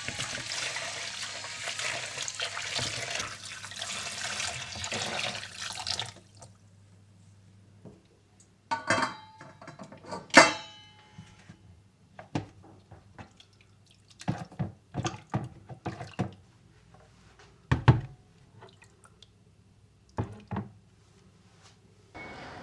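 Water running from a kitchen tap into a sink for about six seconds, then shut off abruptly. It is followed by a series of sharp clinks and knocks, two of them ringing briefly, like dishes being set down or handled.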